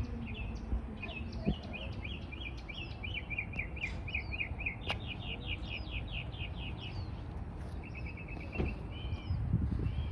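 A songbird singing fast runs of short, high chirping notes, over a steady low background rumble.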